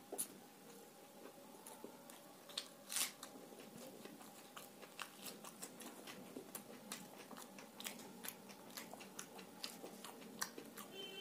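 A person chewing a mouthful of luchi and raw onion close to the microphone, with irregular crisp crunches and wet mouth clicks.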